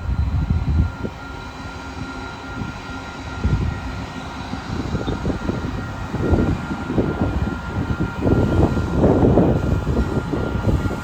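Freight train's diesel locomotives running with a steady low drone and a thin whine, while wheels knock over the rails, growing louder and busier from about halfway through.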